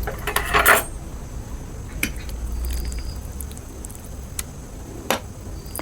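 Eating utensils clinking and scraping against a dish: a short run of clicks and scraping in the first second, then single sharp clinks about two, four and five seconds in.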